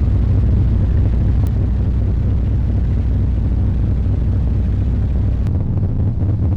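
A deep, steady engine rumble that cuts off abruptly about five seconds in, giving way to wind buffeting the microphone.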